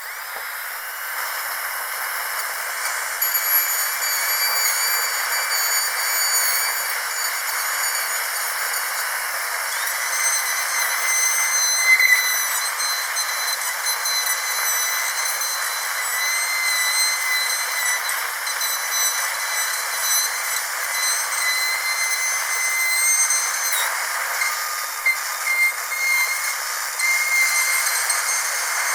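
Dentist's drill whining continuously at a high pitch over a steady hiss. Its pitch shifts slightly now and then.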